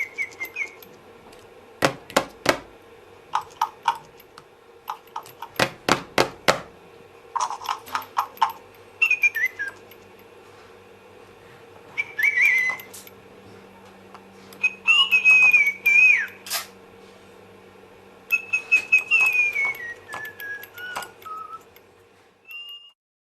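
Lil' Bird Tweeterina interactive toy bird chirping and whistling: bursts of sharp clicking chirps alternate with short electronic whistled phrases that glide up and down, ending in a long falling whistle before it stops suddenly.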